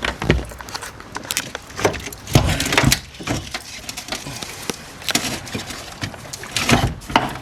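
Irregular knocks, clunks and rattles of hardware being handled while a car battery is swapped out.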